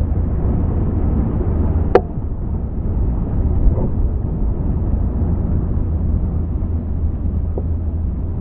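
Steady low rumble of a motor boat under way, engine and rushing noise, with one sharp click about two seconds in.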